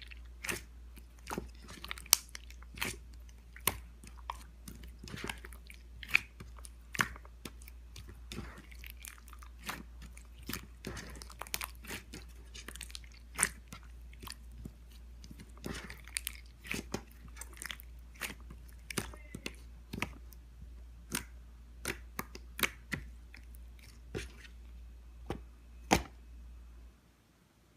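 Clear slime being squeezed and poked by hand, giving sharp, irregular clicks and pops of trapped air, a few each second. A low hum underneath stops near the end.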